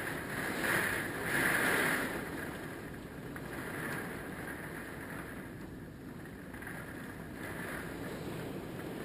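Hurricane Michael's wind rushing, with louder gusts in the first two seconds that settle into a steady roar.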